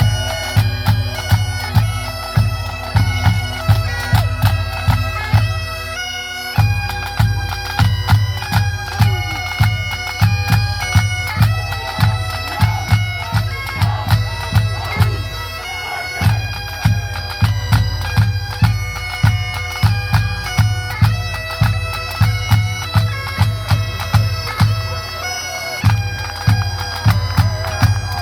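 Bagpipe music: a melody played over a steady drone, with a heavy drumbeat about twice a second that drops out briefly a few times.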